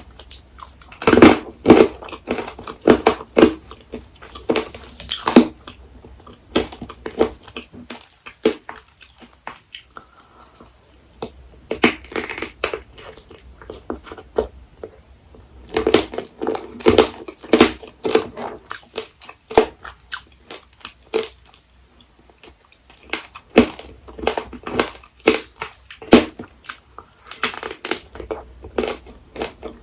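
Close-miked biting and chewing of apricot tanghulu: the hard candied sugar shell cracking and crunching in bouts of rapid crunches, with short pauses between bouts.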